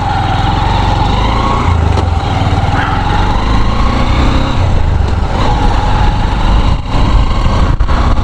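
Motorcycle engine running steadily while riding at road speed, with a heavy low rumble and a steady hum that drifts slightly in pitch.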